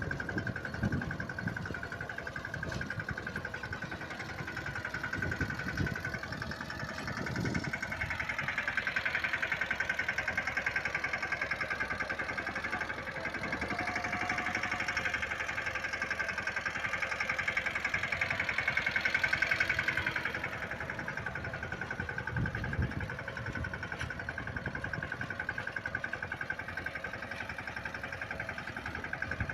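Mahindra Yuvraj 15 hp mini tractor's single-cylinder diesel engine running steadily. It grows louder for a stretch from about eight seconds in to about twenty seconds, then settles back, with a few low thuds along the way.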